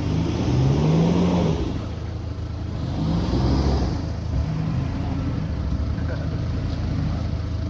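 A four-wheel-drive vehicle's engine running under load, revving up and easing off twice, about a second in and again about three and a half seconds in, over a steady low engine drone.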